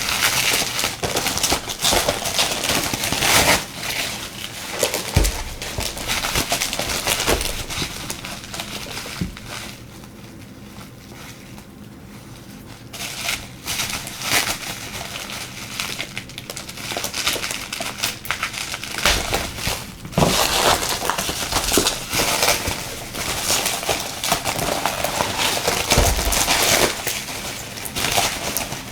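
Packaging crinkling and crackling as it is handled and pulled open, with a quieter stretch about ten seconds in.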